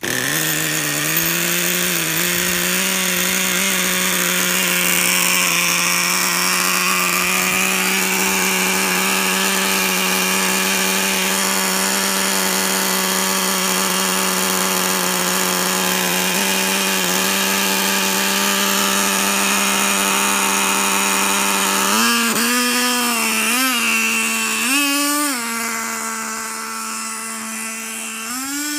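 A Thunder Tiger Pro 15 nitro glow engine in an RC monster truck catches and runs at a steady, fairly high rev. Near the end it revs up and down several times. It needs a tune: it runs lean, and the owner richens the mixture afterwards.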